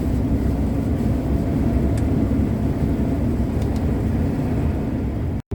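Steady drone of a truck's engine and tyre noise on the road, heard inside the cab while driving. It drops out for an instant near the end.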